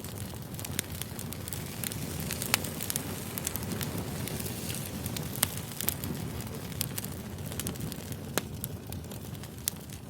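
Campfire crackling: a steady low rush of burning wood with sharp pops and snaps scattered through it, a few much louder than the rest.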